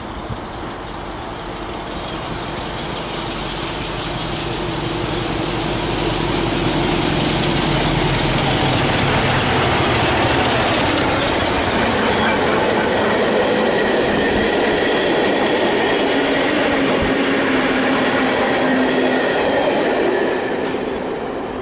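A train passing close by. Its noise builds over the first six seconds or so and then holds steady, with steady low tones under it.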